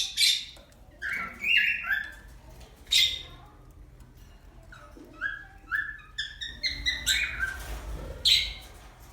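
Pet birds calling: quick runs of short chirps broken by several harsh squawks, about three of them spread through the clip.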